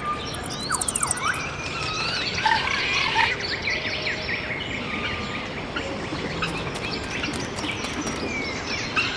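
Forest ambience of many birds chirping and calling at once, short rising and falling notes overlapping over a steady background hiss. A rapid high buzzing trill sounds in the first second and a half.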